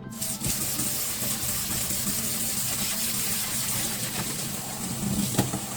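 Kitchen tap running steadily into the sink, switched on at the start, with a faint clink of a dish near the end.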